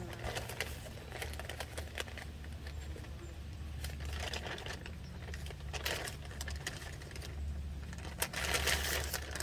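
Sheet of newspaper being handled: rustling and crinkling in short spells with scattered small clicks, over a steady low hum.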